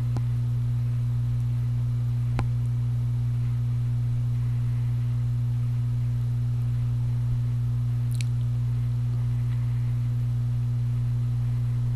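Steady electrical hum: a low, even buzz with a weaker second tone an octave above it, unchanging throughout, with a couple of faint clicks and one short high chirp.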